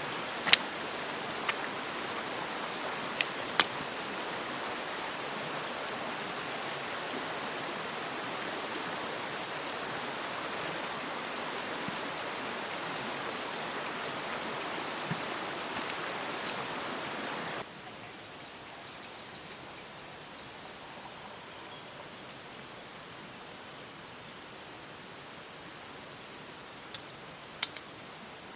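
Steady outdoor rushing noise, with a few sharp clicks near the start. About two-thirds of the way through it cuts to a quieter hiss, with a brief high twittering soon after.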